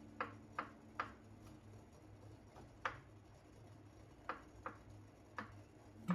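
A kitchen knife tapping down on a cutting board while vegetables are cut: about seven sharp, irregularly spaced chops, three close together near the start and the rest scattered after.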